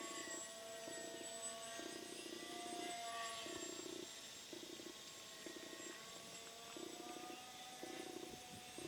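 Twin electric motors of a radio-controlled Twinstar model plane in flight, a faint whine gently rising and falling in pitch, with a lower buzz that cuts in and out about once a second. It sounds like a speed controller (ESC) is not working right, cutting a motor out on the 4-cell battery.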